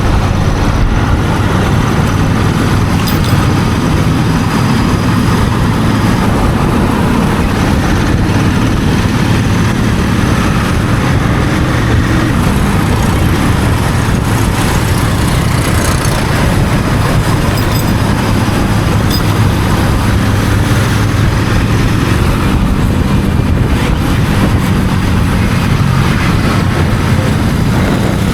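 Royal Enfield Continental GT 650's parallel-twin engine through its stock exhaust, cruising at a steady throttle, with an even rush of wind and road noise over the low engine drone.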